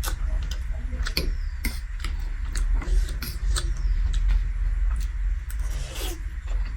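Close-miked eating: irregular crunching and chewing clicks, several a second, over a steady low rumble.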